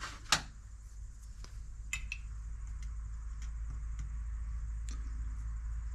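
A few light clicks and taps of small metal carburetor parts and tools being handled on a workbench, the sharpest about a third of a second in, over a steady low hum.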